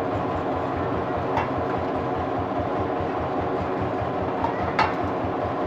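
Diesel engine running steadily with a fast, even beat, and two sharp clicks, the louder one near the end.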